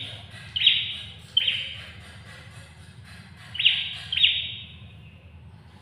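Prenjak kepala merah (a small prinia-type warbler) giving four loud, sharp call notes: two in the first second and a half, then two more close together around three and a half to four seconds. Each note starts abruptly and trails off, over a steady low hum.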